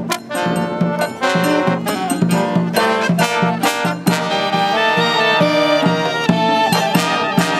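A brass marching band playing an upbeat medley of Japanese festival songs: trumpets, trombones and saxophones carry the melody over a steady, regular drum beat.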